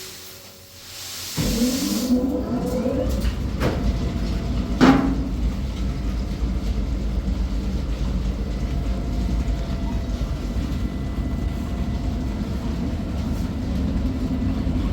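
A heavy machine or engine running steadily with a low rumble and rattle, cutting in abruptly about a second and a half in, with a single sharp knock a few seconds later.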